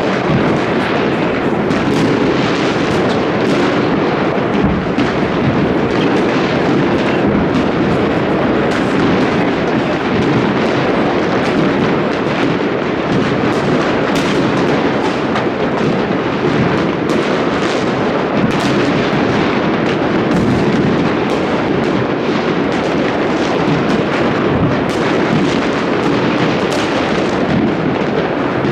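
Many fireworks exploding at once, their bangs overlapping into a continuous din, with sharper individual bangs standing out throughout.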